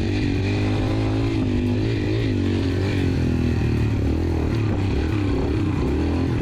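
Motorcycle engine running, its pitch wavering up and down as the throttle is worked.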